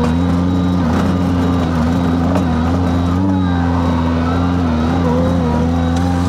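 Skid steer engine running steadily under work, its pitch wavering slightly.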